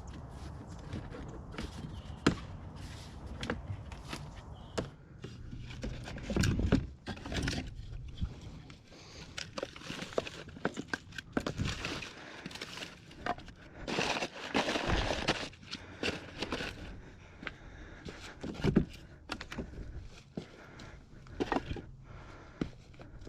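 Irregular snaps, knocks and scrapes of firewood being handled and broken while a campfire is built, with footsteps on the forest floor; a few louder cracks and rustles stand out.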